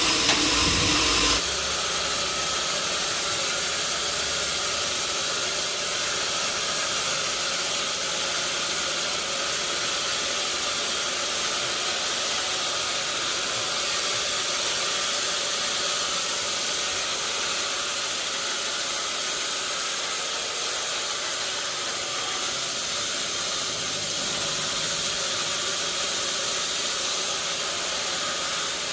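Sawmill machinery running steadily with a hissing noise. A louder sound with a few steady tones cuts off about a second and a half in.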